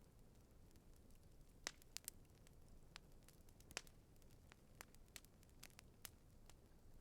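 Quiet campfire with wood crackling: sparse, irregular sharp pops, the loudest a little past halfway, over a faint low steady hiss.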